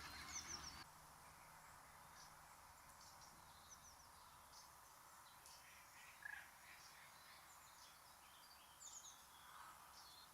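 Geese honking briefly, cut off under a second in, then faint outdoor ambience with a few scattered small bird chirps.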